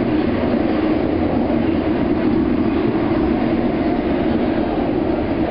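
MARTA rapid-transit train running steadily between stations, heard from inside the railcar: a continuous rumble and hum of wheels and motors on the track.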